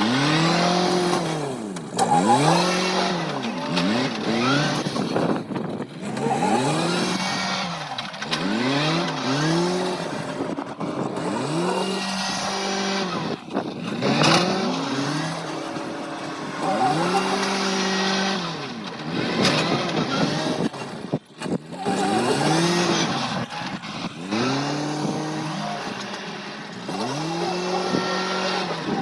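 A farm machine's engine working and revving, its pitch climbing and falling back again and again, each rise and fall lasting one to two seconds.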